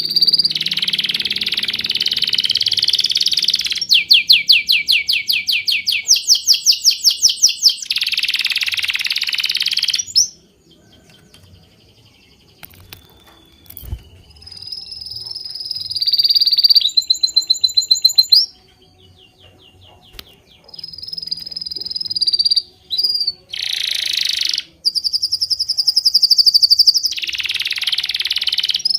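Birds singing: high-pitched chirps and runs of rapid repeated notes, broken by two short lulls partway through.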